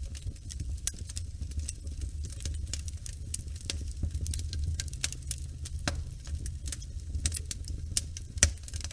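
Wood fire in a fireplace crackling, with many irregular sharp pops over a steady low rumble of the flames. One louder pop comes near the end.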